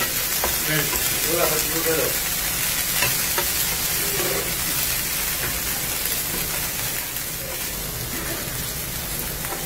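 Chopped spring onions sizzling steadily as they fry in a pan, stirred and turned with a wooden spoon.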